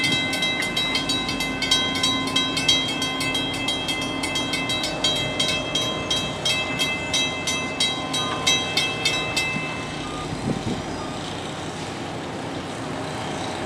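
Shore Line East train of Mafersa coaches rolling away over station trackwork, with a rapid run of sharp metallic clicks and a steady high ringing. The clicking and ringing stop about nine and a half seconds in, leaving a lower, steady rumble.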